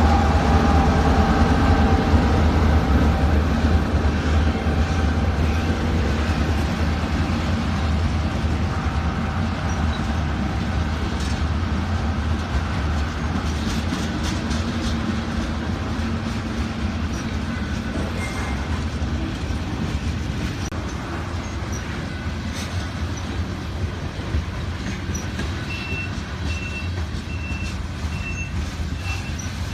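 Freight train rolling past: a steady low rumble of the railcars that slowly fades, with scattered clicks from the wheels. Near the end a high beep repeats at an even pace.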